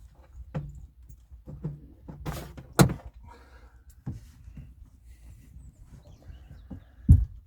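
Scattered knocks and clunks of things being moved about while searching for tools, with two sharp heavy thuds, one about three seconds in and one near the end.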